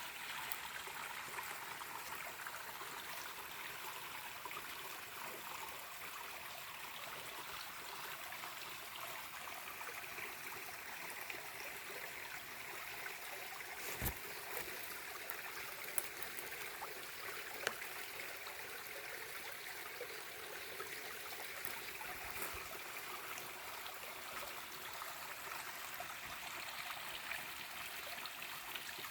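Small forest stream trickling steadily over stones. A few brief sharp clicks stand out about halfway through.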